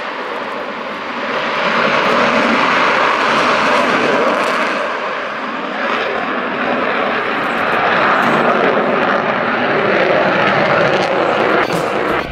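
Two Mirage fighter jets flying over in a display: a loud, steady jet roar that swells about a second and a half in and cuts off suddenly at the end.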